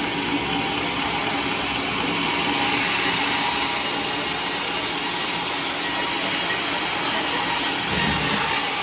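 Sawmill power saw running steadily under load, a dense, even noise with no breaks, and a brief low thump near the end.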